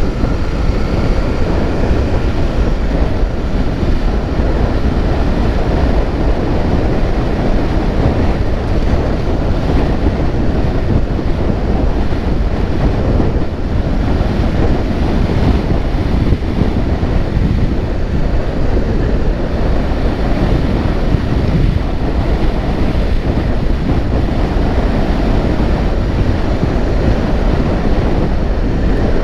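Loud, steady wind rumble buffeting the microphone of a moving vehicle, with the vehicle running underneath.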